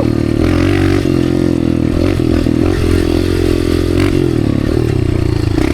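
Dirt bike engine running under way at fairly steady revs, its pitch wavering slightly with the throttle, with a few short knocks from the bike over the trail.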